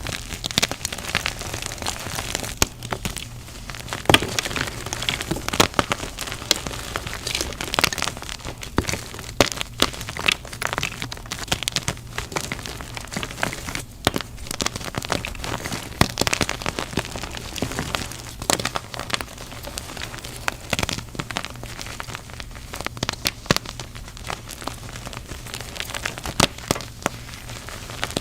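Gym chalk being crushed and crumbled: a dense, irregular crunching full of small sharp cracks and snaps that never lets up.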